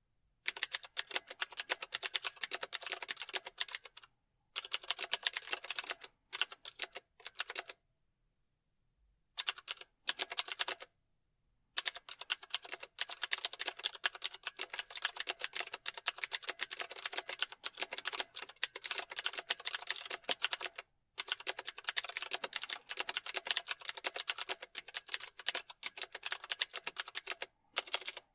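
Typing on a computer keyboard: fast runs of keystroke clicks broken by short pauses a few times.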